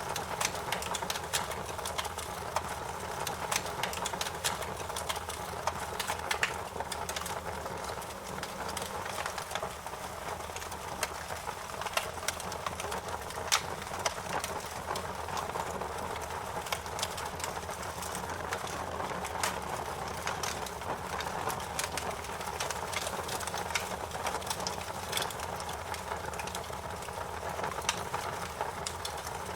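Wood fire crackling steadily, with frequent sharp pops and snaps scattered irregularly over a low, even hiss of the flames.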